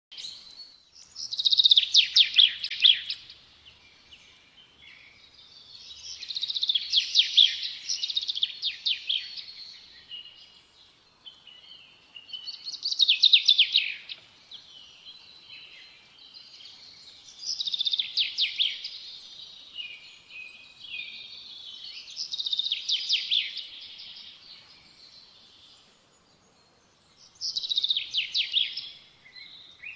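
A songbird singing: short, rapid, high-pitched trilled phrases, each a second or two long, repeated every four to five seconds.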